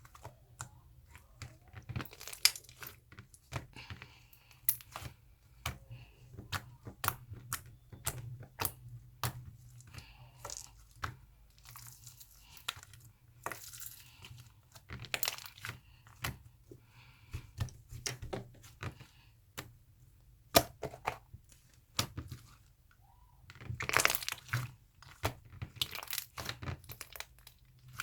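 Mixed slime being kneaded and stretched by hand, giving irregular sharp pops and clicks, with denser bursts of crackling near the end.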